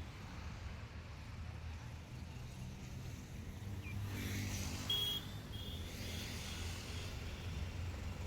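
A vehicle engine running steadily, swelling a little about four seconds in, with a brief high squeak about five seconds in.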